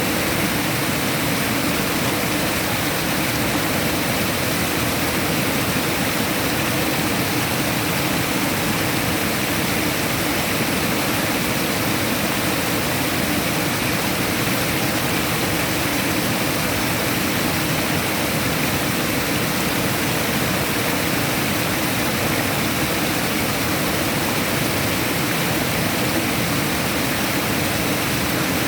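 Steady rushing water, an even roar that does not change.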